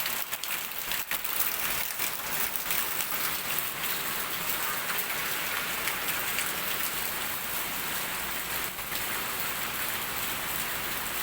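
Heavy rain falling steadily, a dense even patter of drops on surfaces, with a few sharper drop taps in the first second.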